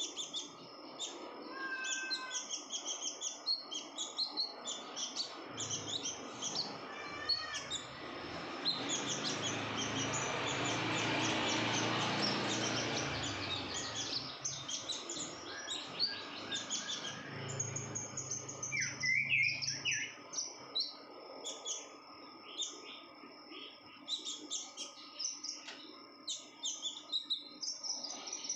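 Female olive-backed sunbird (konin) calling busily in breeding condition: rapid, high, short chirps repeated over and over. A low rumbling noise swells in the middle and fades away about two-thirds of the way through.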